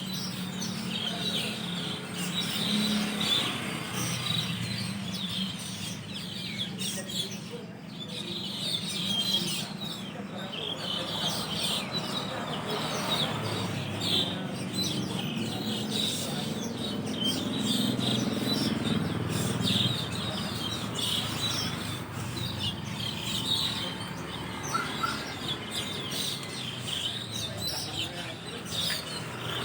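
A large flock of Asian glossy starlings chattering at their roost tree, with many high, sharp chirps overlapping without pause.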